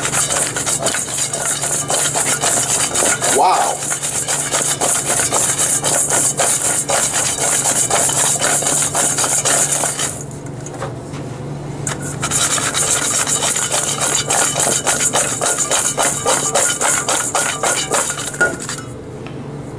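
Raw butternut squash slices tossed in a stainless steel bowl with a dry sugar and spice mix: a fast, continuous scraping rattle of the slices against the metal. It pauses for about two seconds about halfway through, then picks up again and stops about a second before the end.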